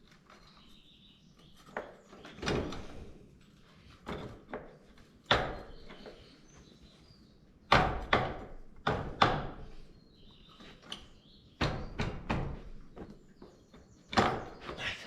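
Irregular metallic clanks and knocks of tools and parts being handled while a motorcycle front wheel and brake are reassembled, about a dozen separate strikes, some in quick pairs.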